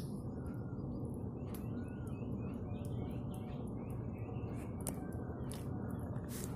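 Small birds chirping in short calls over a steady low background noise, with a few faint clicks.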